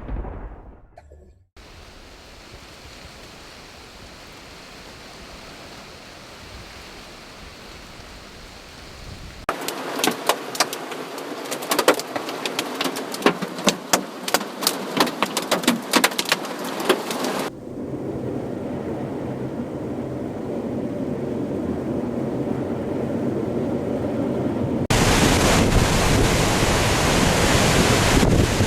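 A run of storm recordings: a rumble of thunder dies away, then a steady hiss of rain. About ten seconds in comes some eight seconds of rapid, sharp clattering hits, and then a rush of wind that builds and jumps louder near the end.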